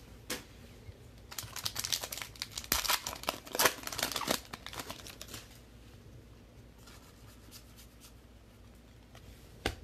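Crinkling and rustling of a foil trading-card pack wrapper as cards are handled, densest from about one to five and a half seconds in, then quieter, with a single sharp click near the end.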